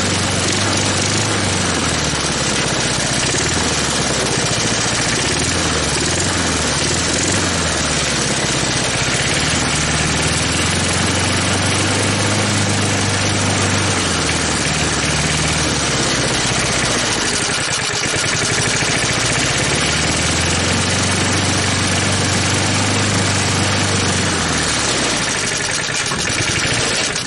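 A 1983 Snapper mower's small engine running, its speed slowly rising and falling, with two clear dips.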